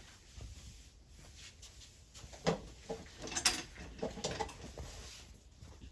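Quiet small room with a few faint knocks and rustles from people settling into their seats, and a couple of brief, faint voice sounds in the middle.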